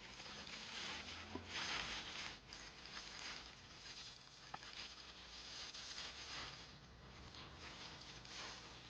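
Faint rustling and scraping of a delivery package being opened by hand, in uneven patches, with one small click partway through.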